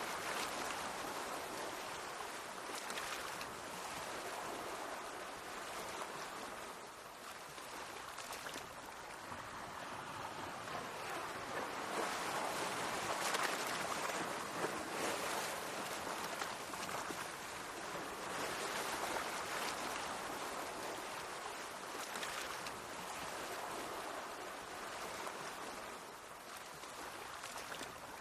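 Small sea waves washing against the shore, a continuous rushing wash that swells and eases every few seconds.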